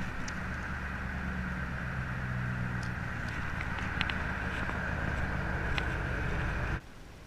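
Truck engine running at a steady idle, a low even hum with a few faint clicks over it, that cuts off abruptly near the end.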